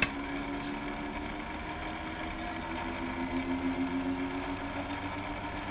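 Steady hum of electrical bench equipment, with a faint held tone that drifts slightly in pitch, and a single click right at the start.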